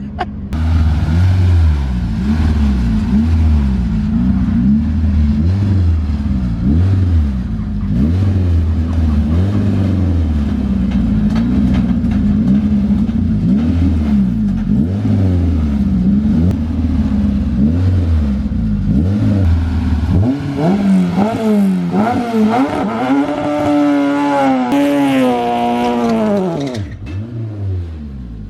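Honda-swapped four-cylinder drag truck engine revving up and down over and over, then launching and pulling hard through the gears, its pitch climbing and dropping back with each upshift before falling away near the end.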